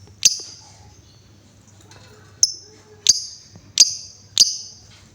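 Female lovebird giving sharp, shrill chirps: one just after the start, then four in quick succession, about two a second, in the second half.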